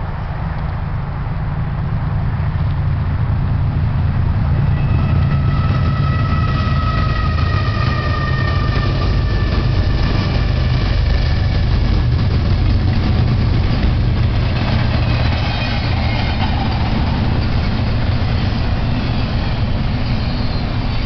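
BNSF double-stack intermodal freight train passing close by. The diesel locomotives' low rumble builds over the first few seconds, with a high whine falling slightly in pitch as they go by. It is followed by the rumble and clatter of the loaded container well cars rolling past.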